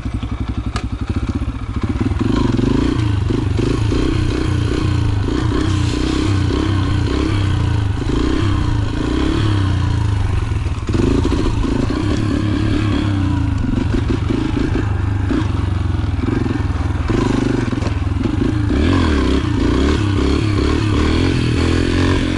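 Yamaha TT-R125 dirt bike's single-cylinder four-stroke engine running at low speed, its revs rising and falling.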